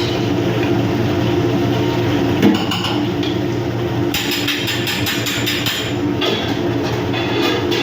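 Chicken wings deep-frying in hot oil, with a stretch of louder hissing from the oil in the middle. Metal utensils knock and clatter against the pan. A steady low machinery hum runs underneath.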